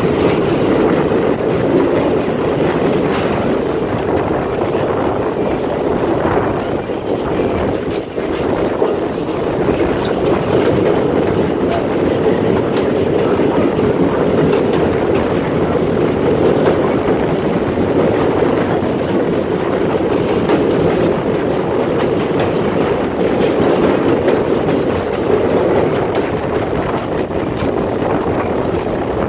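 Alaska Railroad train's wheels rolling over the rails of a steel river bridge, a loud steady rumble, heard from on board the moving train.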